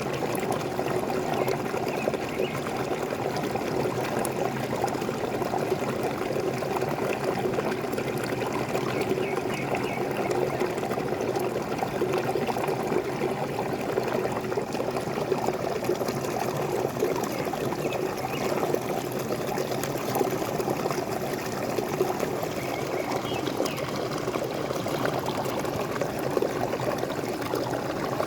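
Waterfall running steadily.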